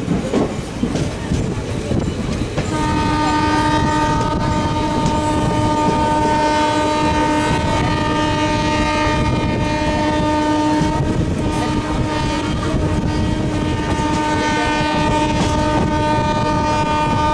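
Train horn sounding in one long, steady blast that starts about three seconds in and holds to the end, over the running noise of a moving train.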